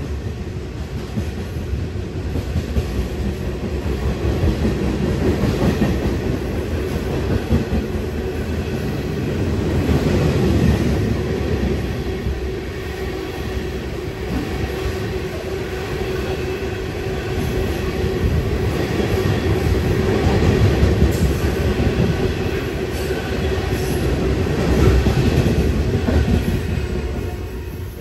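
Freight train cars rolling past close by: a steady rumble of steel wheels with clacking over rail joints, fading slightly near the end as the last car goes by.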